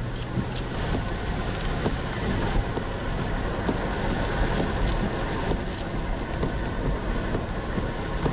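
Steady road and wind noise inside a moving car, with a low engine hum in the first few seconds and a few light knocks.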